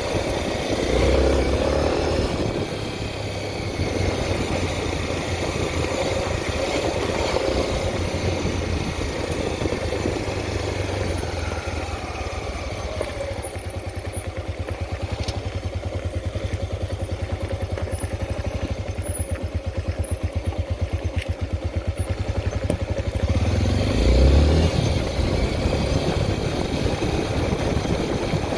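Honda XR 250 Tornado's single-cylinder four-stroke engine running at low revs with an even thump, rising briefly about a second in and again near the end.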